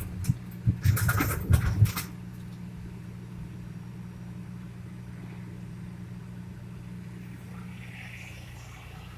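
A rapid run of loud metal clanks and knocks for about two seconds, then a steady low machine hum for the rest.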